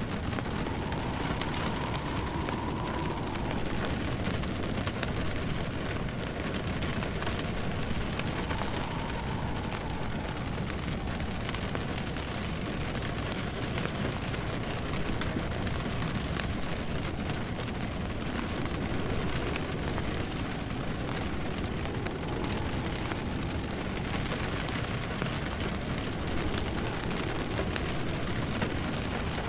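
Steady rain pattering, with a log fire crackling through it. Now and then a faint wind howl rises and falls.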